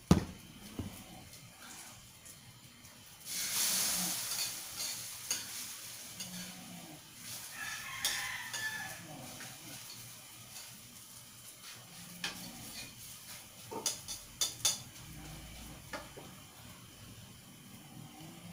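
Pancake batter frying in oil in a wok, with a sharp knock at the start and a loud burst of sizzling about three seconds in. A rooster crows briefly in the background around the middle, and there are a few sharp clicks later on.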